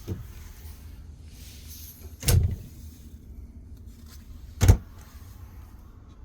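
Dull knocks: a light one at the start, then two louder ones about two seconds apart, the last the sharpest.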